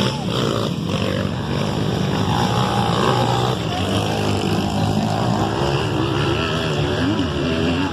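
Motocross dirt bike engines revving, the pitch rising and falling repeatedly as the throttle is worked, over a steady low engine drone.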